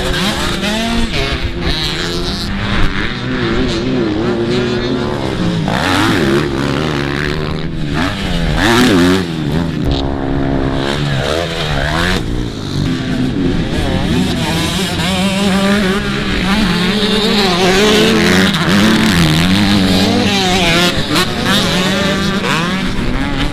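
Several motocross dirt bikes racing, engines revving hard and dropping back over and over as they shift and hold the throttle, their pitches overlapping.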